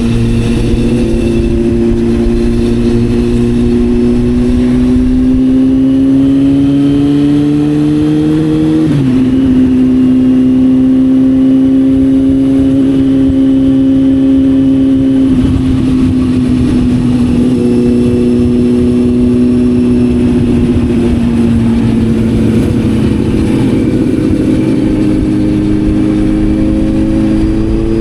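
Sport motorcycle engine running under way: the pitch climbs slowly, drops sharply about nine seconds in as it shifts up, holds steady, dips briefly near the middle, then climbs again near the end. Steady wind rush underneath.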